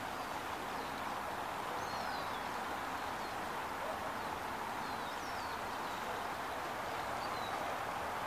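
Steady outdoor background noise with faint, short chirps of small birds now and then.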